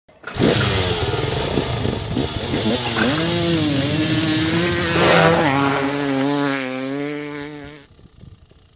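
Motorcycle engine revving up and down, then held at a steadier speed before cutting out about a second before the end.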